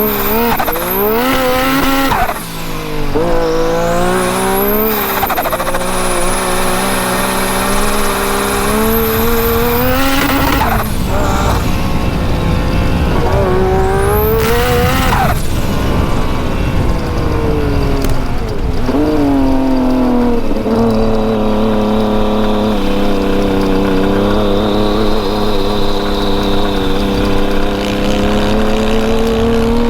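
Turbocharged Yamaha YXZ side-by-side engine under hard throttle, revs climbing and dropping again and again through gear changes, with a high whistle sweeping up and down several times in the first half. For the last ten seconds the engine runs at a steadier pitch, rising slowly.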